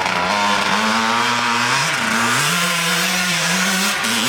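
Dirt bike engine running at steady revs. Its pitch dips briefly about two seconds in, then climbs back and holds.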